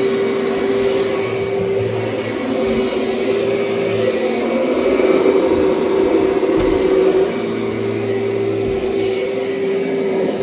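Kirby upright vacuum cleaner running steadily, its motor giving a constant hum, with a slight drop in level a little past the middle.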